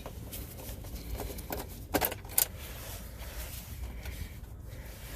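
A few sharp clicks and light rattles of wires being pulled off an air-conditioner contactor's terminals, two louder clicks about two seconds in, over a low steady hum.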